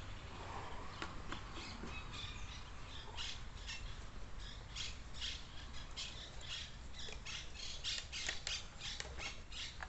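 Birds squawking: a rapid series of short calls that comes thicker from about three seconds in.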